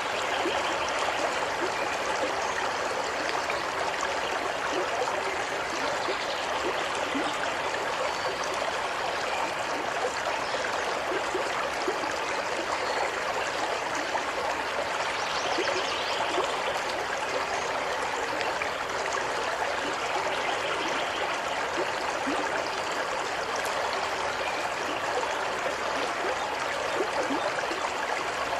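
Waterfall: water falling and splashing in a steady rush, with fine splashing and trickling detail and no change throughout.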